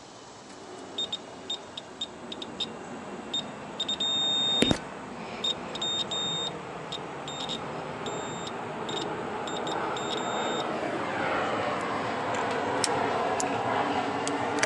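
Multimeter continuity beeper sounding in short high beeps, with one longer beep and a sharp click a little over four seconds in, as the probes touch between compressor and suction line: continuity to ground, the sign of a compressor winding shorted to ground. A steady rushing noise grows louder over the last few seconds.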